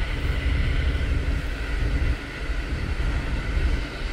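Intercity passenger train running along the line: a steady, loud low rumble of wheels on rails with a hiss above it, easing briefly about two seconds in.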